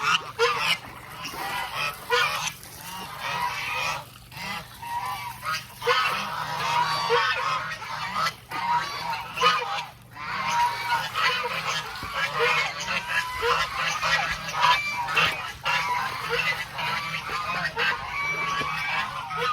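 Domestic geese honking continuously, many short calls overlapping.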